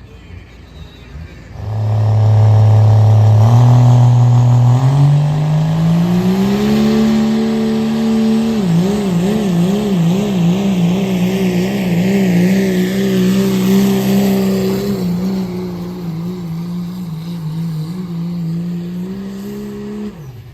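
Turbocharged diesel pickup engine in a 2.6-class truck pull, revving hard under load: its note climbs in steps over several seconds, then wavers rapidly up and down for several seconds before steadying. The engine note drops away just before the end.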